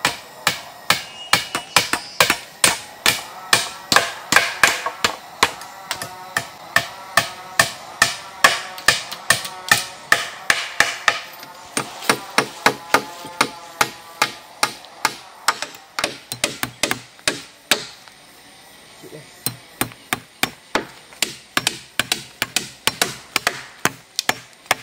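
Hammer driving nails into wood, a run of sharp blows at about three a second with a short break about eighteen seconds in.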